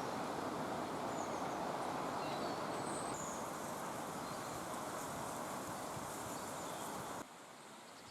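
Steady outdoor background noise with a few faint, brief bird chirps. The noise drops abruptly about seven seconds in.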